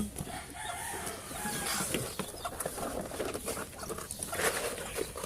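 Bantam chickens clucking and making scattered short calls.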